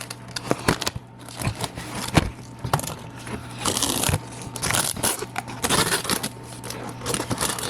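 Irregular clicks, knocks and scrapes of handling noise, over a steady low hum.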